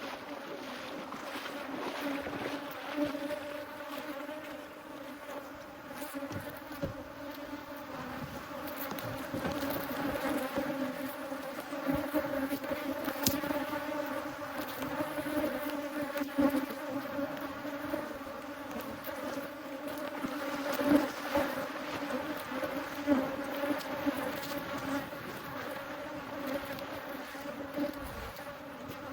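A mass of honeybees buzzing in a dense, steady drone, with a few faint clicks and knocks.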